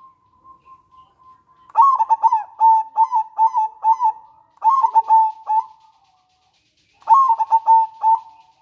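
Local zebra dove (perkutut) singing: a faint held note, then two bouts of rapid, clipped coos at about three a second, the second bout shorter.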